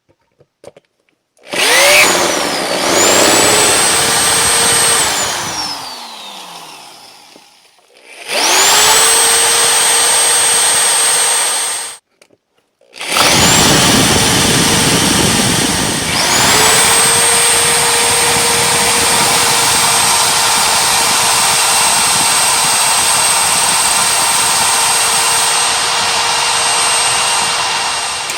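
Electric drill boring out a stripped steel mounting bolt in three runs, each spinning up to a steady high whine with a rough grinding of the bit in the metal. The first run starts about a second and a half in and winds down slowly. The second stops abruptly at about 12 seconds. The third, the longest, starts a second later and carries on.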